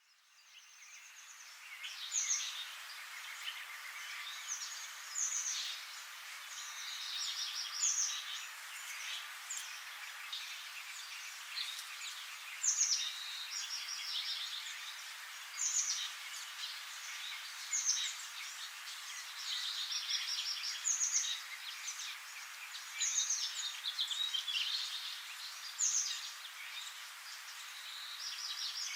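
Many small birds calling and singing at once: a dense chorus of quick chirps, trills and short sweeping notes over a steady hiss, fading in over the first two seconds.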